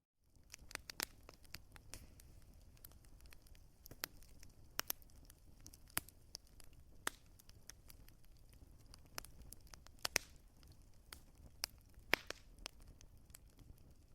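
Wood fire in a fireplace crackling, with irregular sharp pops and snaps of varying strength over a low, steady rumble of burning. The loudest pop comes about twelve seconds in.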